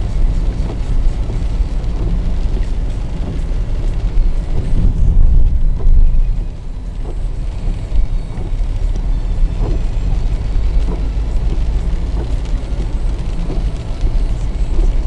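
Car driving, heard from inside the cabin: a steady low rumble of road and engine noise that swells for a couple of seconds about five seconds in.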